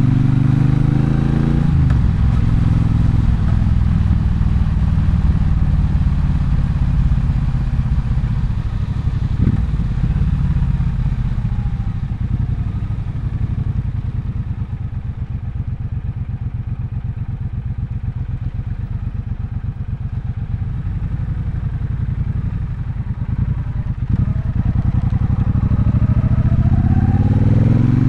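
Triumph Bonneville Bobber's 1200 cc parallel-twin engine: the note falls as the bike slows at the start, then runs low and settles to a quieter, pulsing idle in the middle, and revs rise again near the end as it pulls away.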